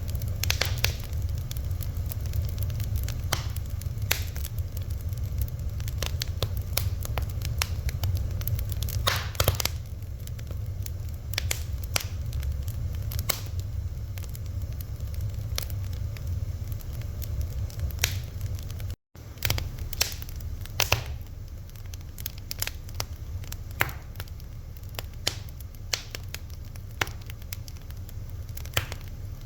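Fire crackling, with frequent sharp pops and snaps over a steady low rumble. The sound cuts out for an instant about two-thirds of the way through.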